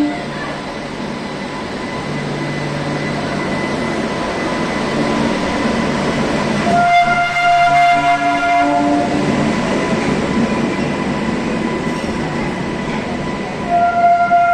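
Train running along the track with a steady rumble. Its horn sounds for about two seconds around the middle and again near the end.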